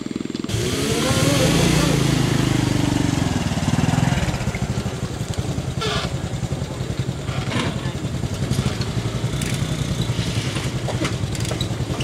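Toyota Calya's engine running while the car sits stuck in deep mud, its revs rising and falling in the first few seconds, then running steadily.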